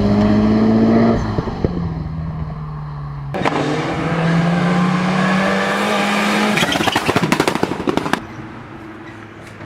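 Mitsubishi 4G63T turbocharged four-cylinder engine running hard. The pitch drops about a second in, the sound breaks briefly, then it pulls again with slowly rising pitch. Near the end comes a rapid string of crackling pops, after which the sound fades away.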